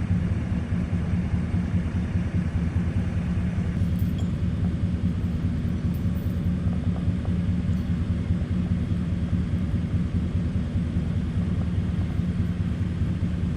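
A vehicle engine running steadily: an even, low drone that holds at one pitch.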